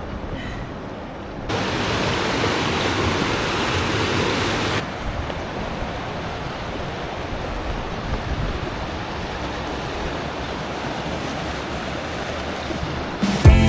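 Rushing creek water running over rocks, a steady hiss that is louder for a few seconds near the start. Music with drums comes in near the end.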